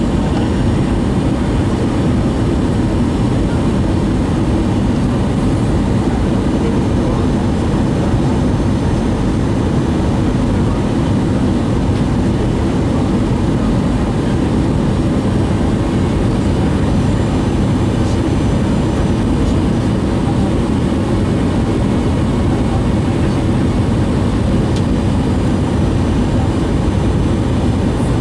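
Steady roar of an Airbus A320's engines and airflow, heard inside the passenger cabin, low and even throughout.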